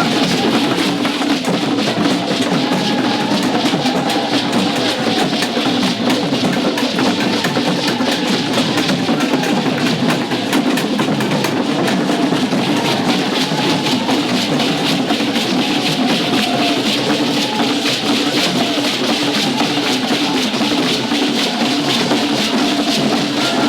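Music led by drums and percussion, a dense, fast beat that keeps going without a break.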